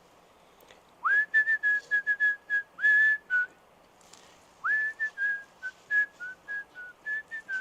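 A person whistling a simple tune in two phrases, each starting with a quick upward slide into a run of short notes at nearly the same pitch.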